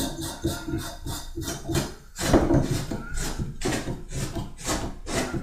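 Faucet trim ring (beauty ring) being turned by hand onto the threaded valve sleeve of a tub/shower faucet: repeated rubbing and scraping strokes, coming about two a second from about two seconds in.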